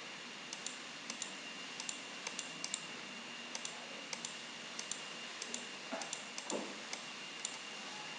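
Irregular clicks of a computer mouse, many in quick pairs, over a steady faint hiss.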